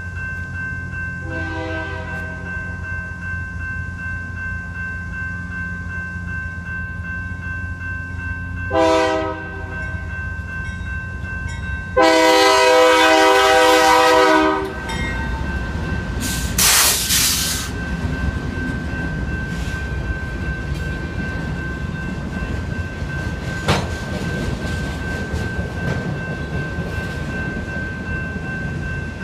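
Railroad crossing's electronic bell ringing steadily while a BNSF diesel freight locomotive sounds its horn: a faint blast about a second in, a short one about nine seconds in, and a long, loud blast from about twelve seconds as it reaches the crossing. Then the rumble and clatter of the freight's autorack cars rolling past, with a brief hiss at about seventeen seconds.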